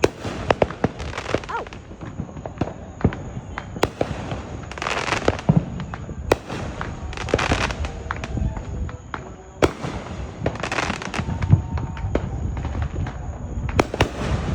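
Fireworks going off: many sharp bangs, with bursts of crackling every few seconds.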